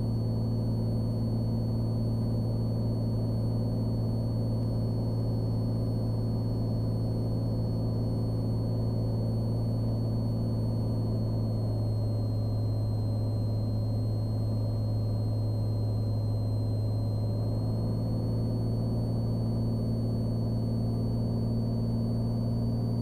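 Cessna Skylane's piston engine and propeller droning steadily in flight, heard in the cabin, with a thin high whine above the drone that dips slightly in pitch for a few seconds midway.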